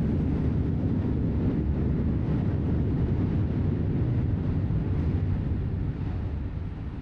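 A passing train's low, steady rumble, beginning to fade away near the end.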